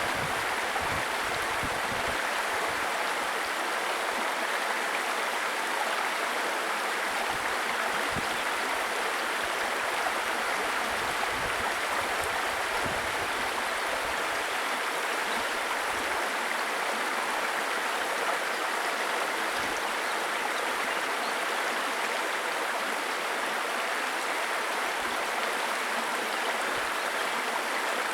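A small stream babbling steadily over rocks, an even rush of running water.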